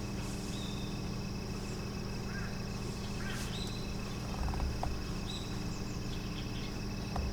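Outdoor ambience: short bird chirps every second or two over a steady high drone and a low steady hum, with a couple of soft low knocks about four and a half seconds in and near the end.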